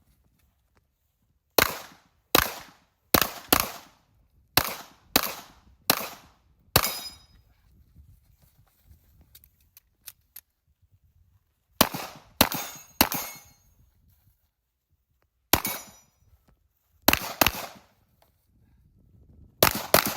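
Gunshots fired one at a time at targets, each a sharp crack with a short echo. Eight come in a quick run, then after a pause three more, then a few spaced singles and pairs near the end.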